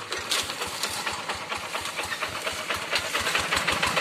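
Two-wheel rice-field tractor's single-cylinder diesel engine running steadily, with rapid even thuds of its firing under a clattery, hissing mechanical noise.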